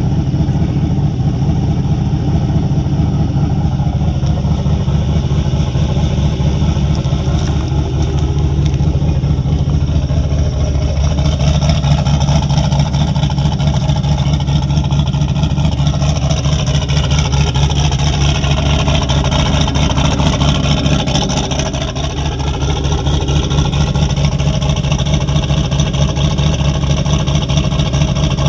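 Turbocharged 4.8-litre Gen 3 LS V8 idling steadily on E85 while it warms up after a cold start in freezing weather. A brief small dip in level comes about three-quarters of the way through.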